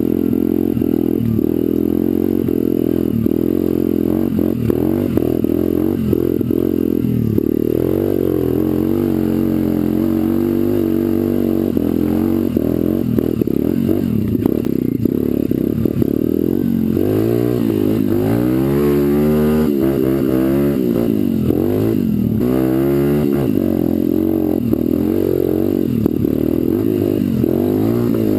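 Pit bike engine running as it is ridden, its pitch rising and falling as the throttle is opened and closed, with sharper rises in revs in the second half.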